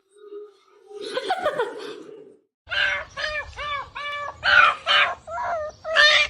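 A quick run of short, high animal calls, about three a second, each rising and falling in pitch. A shorter, rougher call comes before them.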